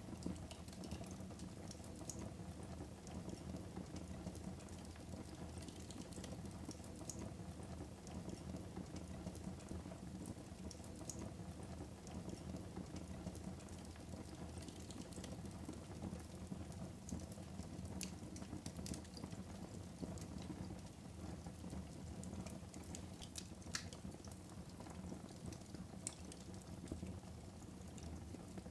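Wood fire burning in a fireplace: a steady low rumble of flames with scattered sharp crackles and pops, a few louder pops in the second half.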